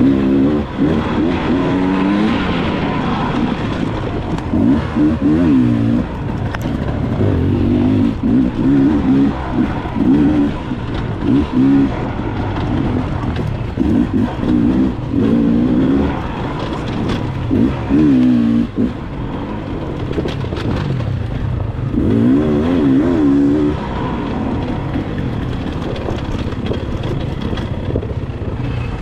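Dirt bike engine revving up and down over and over, its pitch climbing and dropping every few seconds as the bike accelerates, shifts and backs off, with steady wind and road noise underneath.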